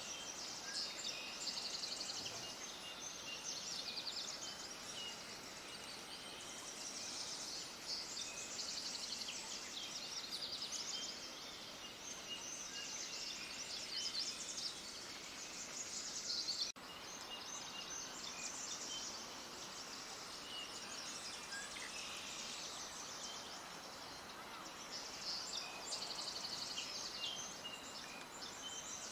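Many small songbirds chirping and twittering in quick, high trills over a steady background hiss, with a brief click and dropout about two-thirds of the way through.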